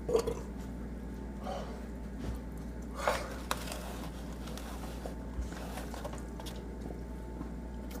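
A steady low hum, with a few faint, short clicks and soft knocks scattered through it.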